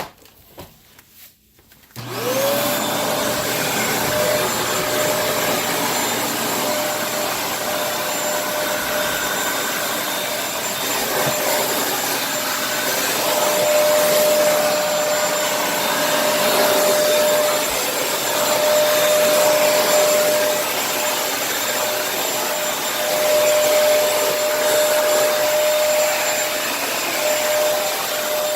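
Kenmore vacuum cleaner switched on about two seconds in, its motor spinning up with a rising whine. It then runs steadily, with a whistling tone that fades in and out as it vacuums.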